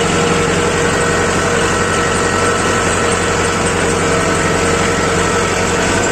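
Mahindra 415 DI SP Plus tractor's diesel engine running steadily.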